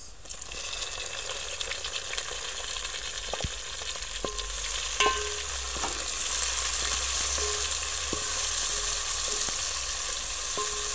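Chopped tomatoes sizzling in hot oil with fried onions in an aluminium pot, stirred with a wooden spoon that knocks against the pot a few times.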